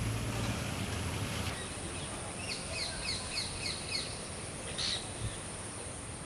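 A bird calling over steady outdoor background noise: a quick run of about six short chirps, about three a second, then one louder chirp a second later. A low hum stops about a second and a half in.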